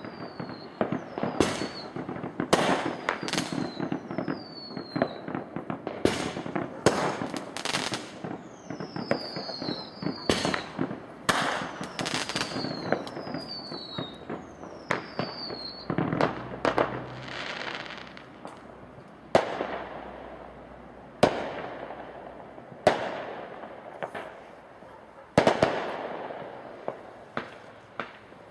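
Fireworks going off: a rapid run of sharp bangs and cracks, each with an echoing tail, mixed with short whistles that fall in pitch. About halfway through the bangs thin out to single reports every second or two.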